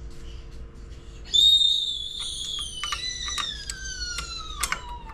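A high whistle-like squeal starts suddenly about a second in, loudest at first, then slides slowly and steadily down in pitch, with a second lower tone joining and falling further near the end. Small clicks and knocks are heard alongside.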